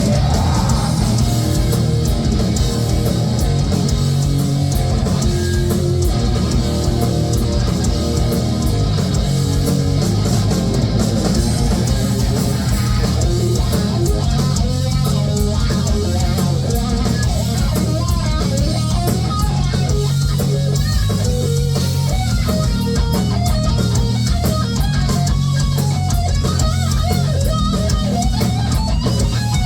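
Heavy metal band playing live: distorted electric guitars and bass over a steady drum beat.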